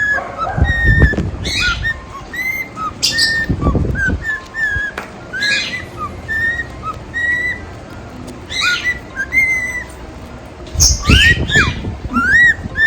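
Pet cockatiels whistling and chirping: a run of short whistled notes and up-and-down glides at much the same pitch, mixed with harsher chirps. A few low thumps come about a second in, near the four-second mark and around eleven seconds.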